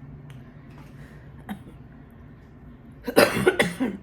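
A person coughing, a harsh burst about three seconds in, after a few faint clicks.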